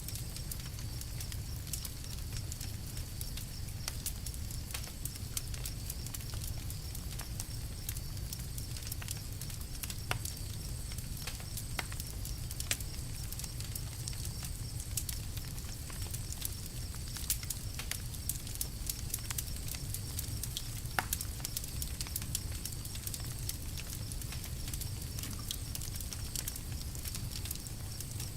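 Campfire crackling: frequent sharp pops and snaps, irregularly spaced, over a steady low rumble.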